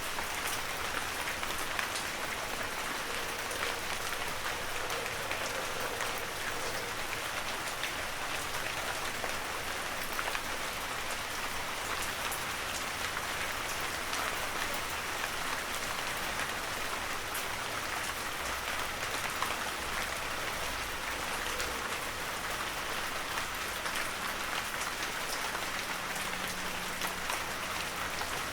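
Heavy rain falling steadily, a dense even hiss of drops with scattered individual drop taps.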